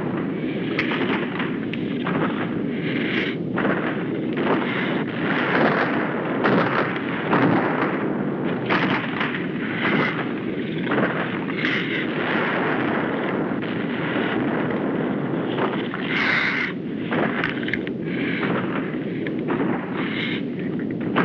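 Film sound effects: repeated explosion-like blasts over a continuous heavy rumble, dense and unbroken throughout.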